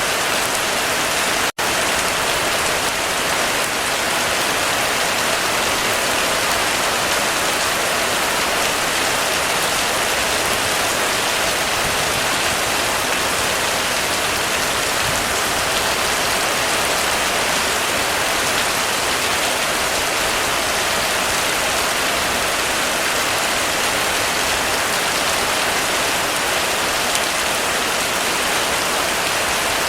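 Heavy rain falling steadily on a roof, a dense even hiss of drops. The sound cuts out for an instant about a second and a half in, then carries on unchanged.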